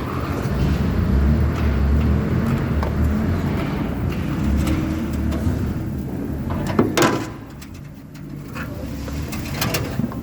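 An engine running steadily with a low rumble, then a sharp, loud knock about seven seconds in, after which the rumble drops lower.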